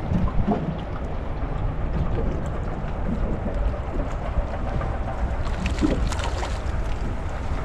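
Small boat under way, its outboard motor running steadily, with wind rumbling on the microphone.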